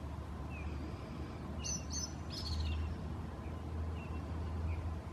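Small birds chirping, a scatter of short high chirps, the loudest cluster about a third of the way in, over a steady low rumble.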